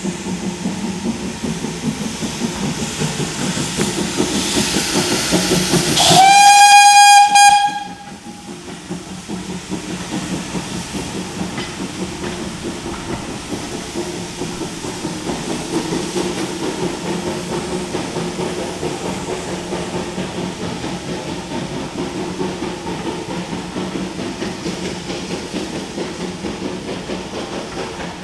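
Steam locomotive working with a steady pulsing beat; a hiss builds up, and about six seconds in its whistle sounds once, loud, for about a second and a half.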